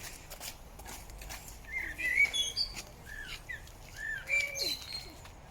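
Small birds chirping: a quick series of short, bending calls starting about two seconds in, over a few faint clicks in the first second.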